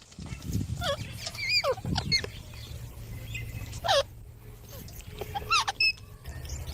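Green parrots giving short, scattered calls that slide in pitch, about six in all, over a steady low rumble.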